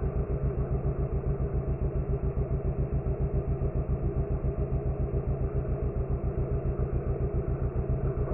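Motorcycle engine running at steady low revs, a rapid even low pulsing of about ten beats a second.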